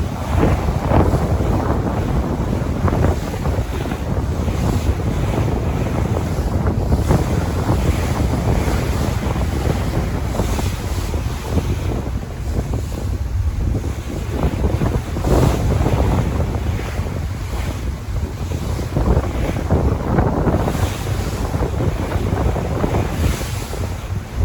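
Sea waves surging and breaking in irregular swells every few seconds, over a heavy low rumble of wind buffeting the microphone.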